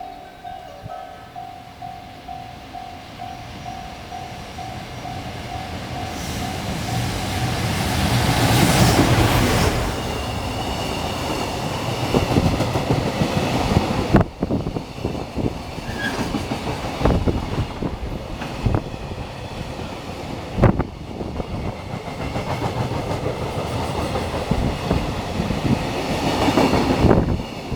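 Freight train passing at speed: the locomotive builds to a loud peak, then a long string of wagons clacks over the rail joints with a few sharp knocks. A pulsing chime-like bell, typical of a Japanese level crossing warning, rings during the first few seconds.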